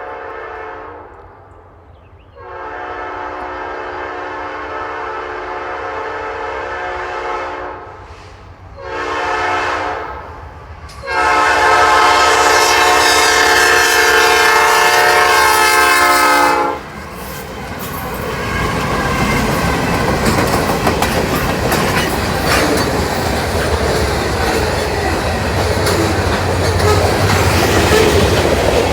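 Norfolk Southern locomotive's multi-chime air horn sounding long, long, short, long, the grade-crossing signal. The last blast is the loudest and is held for about six seconds. Then the train passes close by with engine rumble and wheels clattering over the rail joints.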